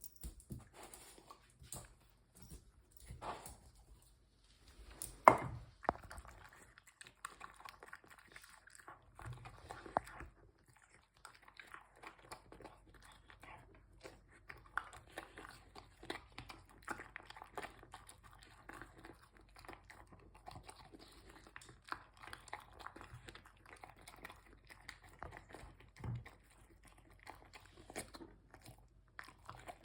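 A dog chewing and crunching her dehydrated lamb meal, with irregular crunches and clicks and one sharp, louder knock about five seconds in.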